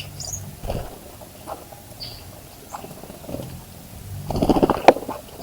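Small birds giving short high chirps at a bird bath. About four seconds in, a second-long burst of rapid fluttering splashes from a bird bathing, ending in a sharp click.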